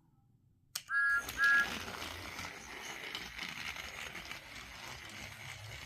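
A click, then two short high whistle toots from a motorized talking Thomas toy engine's sound chip, followed by its small battery motor running steadily as it drives along the plastic track.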